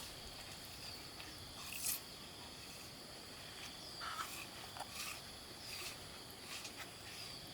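Steady high-pitched buzzing of insects such as crickets or cicadas, with a few sharp knocks or clicks scattered through it, the loudest about two seconds in.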